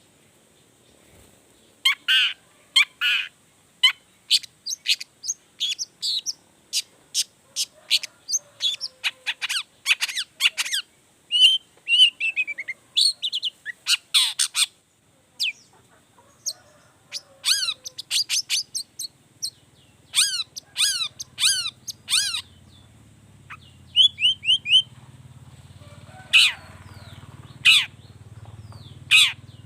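Long-tailed shrike (cendet) calling in an agitated, excited burst: a rapid run of short, sharp harsh notes and quick downward-sweeping chirps, starting about two seconds in. A faint low steady hum sits under the second half.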